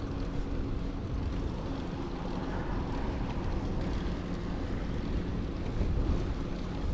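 Wind rumbling on the microphone of a camera riding on a moving bicycle, with a faint steady hum underneath.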